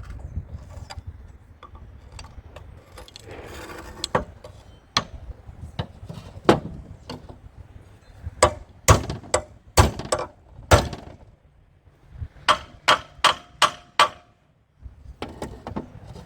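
Metal tool knocking on metal: scattered sharp strikes, the loudest bunched a little past the middle, then a quick run of about six taps near the end, as the impeller is worked loose from the old Champion pump's shaft.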